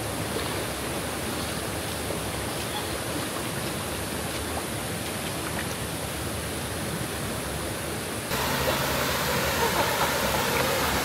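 Steady rushing of a jungle waterfall and river. About eight seconds in it steps up suddenly to a louder rush.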